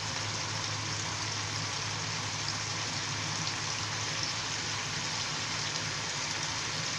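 Steady sizzling of chopped onions, green chillies and spice paste cooking in oil and a little water in a pan over a raised flame, with a low steady hum underneath.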